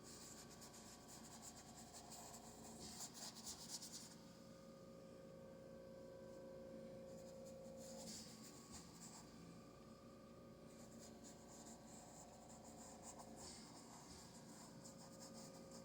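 Faint scratchy rubbing of a paintbrush on canvas, coming in a few short spells, over a low steady hum.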